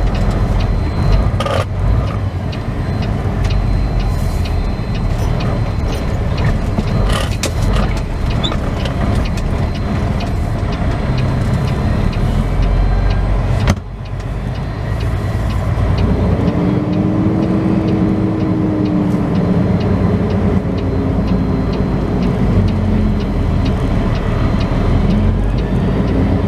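Semi truck's diesel engine running at low speed with a steady low rumble and a few sharp clicks and knocks. About two-thirds of the way through, the engine note rises and falls as the truck pulls along.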